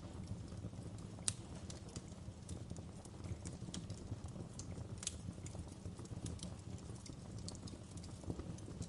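Wood fire crackling in a fireplace: irregular sharp snaps and pops over a steady low rumble of burning, with one louder pop about a second in.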